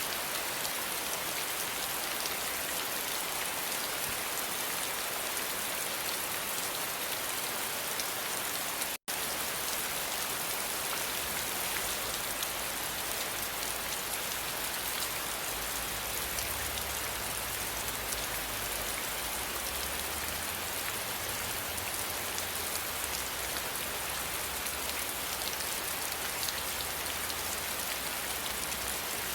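Steady rain falling, a continuous hiss with scattered ticks of individual drops. The sound cuts out for an instant about nine seconds in.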